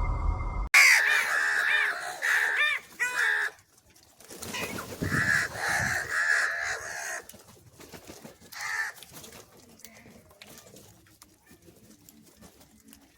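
Crows cawing: two runs of quick, repeated harsh caws, then one short caw, with the calls growing sparse near the end.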